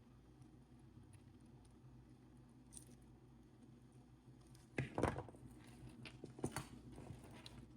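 Quiet room tone, then about five seconds in a cluster of small clicks and rattles of beads being handled, followed by scattered lighter clicks.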